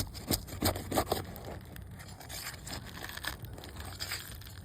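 Brittle asphalt roof shingle cracking and scraping as it is pried up: a few sharp cracks in about the first second, then faint crackling. The shingle is so brittle that it tears when lifted.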